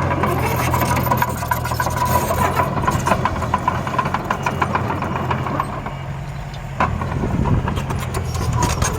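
A construction-vehicle engine running steadily, with dense clicking and rattling over it and one sharp knock about seven seconds in.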